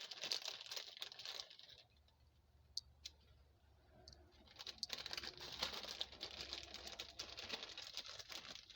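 Rapid light crinkling and ticking of a plastic cheese bag being handled as cheese is added to a sandwich, in two stretches with a near-quiet gap from about two to four seconds in.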